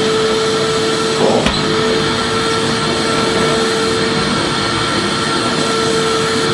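Vacuum cleaner running steadily: a constant whooshing rush with a steady hum, and a brief change in its sound about a second and a half in.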